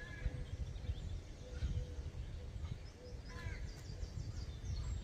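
Outdoor ambience: a steady low rumble with a few faint bird chirps, one near the start and two more around the middle.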